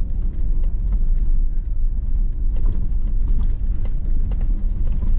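Hummer H2 driving a dirt trail, heard from inside the cabin: a steady low rumble of engine and tyres, with scattered small clicks and rattles as the truck rides over the rough ground.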